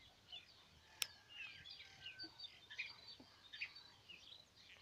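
Faint birds chirping and calling in short, repeated notes, with a single sharp click about a second in.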